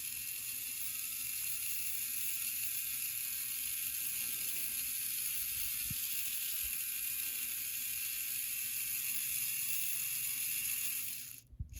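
Small electric motor and gear drive of an HO-scale Bachmann E60CP model locomotive running steadily on the bench, with a high, even whir of meshing gears that stops near the end. One of its gears is a modified substitute from an old Lifelike motor, and the gears are still running ungreased.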